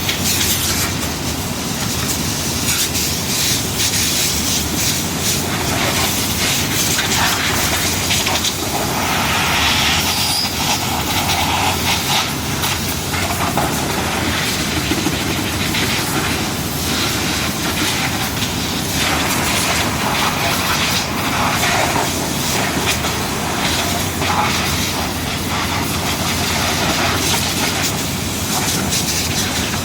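Steady machinery noise with irregular clicking and rattling throughout.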